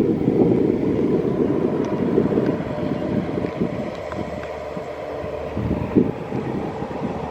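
Kashima Rinkai Railway freight train rolling past, a steady low rumble of wheels on rail with occasional knocks, one sharper knock about six seconds in. The rumble slowly fades.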